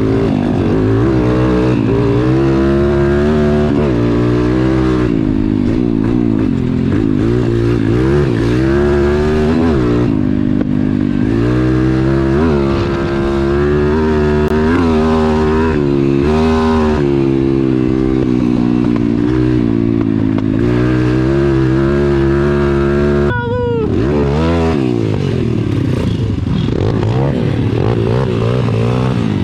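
Pit bike engine being ridden hard on a trail, its pitch rising and falling constantly with the throttle. About three-quarters of the way through, the pitch drops sharply as the throttle shuts, then it revs back up.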